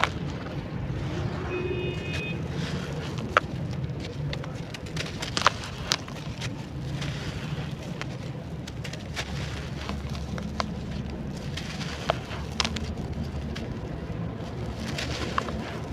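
Pieces of charcoal clay crumbling and crackling, with irregular sharp crunches and clicks over a steady low hum.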